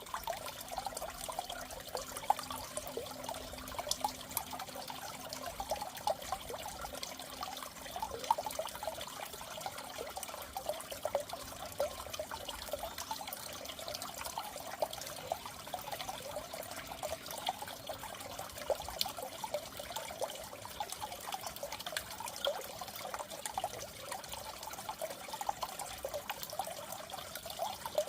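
Steady trickling, bubbling water in a goldfish tank, full of small, irregular pops and splashes.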